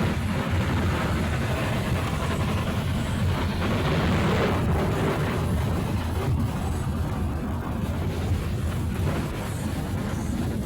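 Steady, loud rumbling roar of an aircraft during a rough landing, heavy in the low end.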